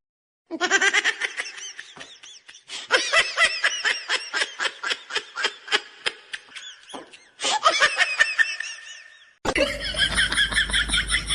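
A person laughing hard in a quick run of high-pitched bursts, several a second, with a short break around seven seconds in. Near the end it cuts abruptly to a different sound with a low hum beneath it.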